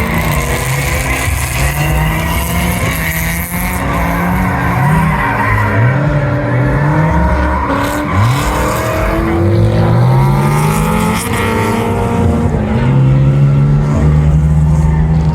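Drift car engine revving hard, its pitch climbing and dropping again and again as the revs rise and fall, with tyre squeal over it.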